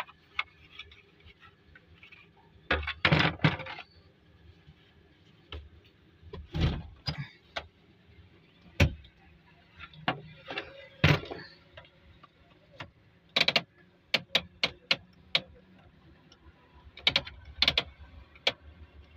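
Irregular clicks, knocks and rattles of hand work taking apart a car's heater/AC selector control in the dashboard, with a quick run of small clicks about two-thirds of the way through. The selector's gear is slipping and won't move onto heat.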